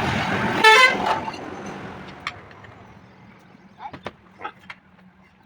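A vehicle goes by, sounding a short horn toot under a second in, its noise fading away over the next couple of seconds. A few light clicks follow.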